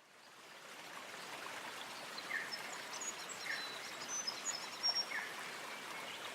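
Birds calling outdoors over a steady background hiss: short notes repeat every second or so, with quick high chirps between them. The sound fades in at the start.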